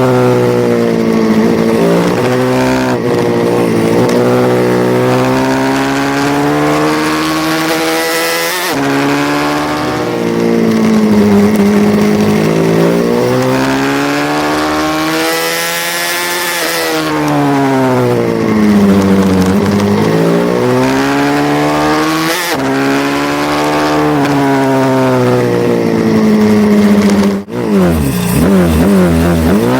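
Small race pit bike engine revving hard, its pitch rising as it accelerates and falling as it backs off into corners, over and over. Near the end there is a brief break, then several engines are heard together with pitches weaving across each other.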